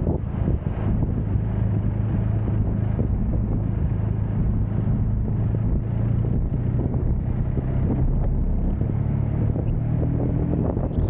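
Motorcycle engine running steadily while riding, a low hum that shifts slightly in pitch, under constant wind noise on the camera microphone.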